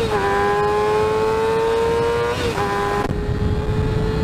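600 cc sportbike engine pulling hard under full acceleration, its pitch climbing steadily, with quick dips near the start and about two and a half seconds in as it shifts up a gear. About three seconds in the engine note thins to a steady tone under heavy wind buffeting on the microphone.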